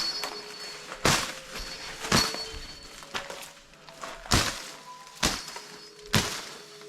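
Dull thuds or knocks, about one a second, seven in a row, over faint steady background tones.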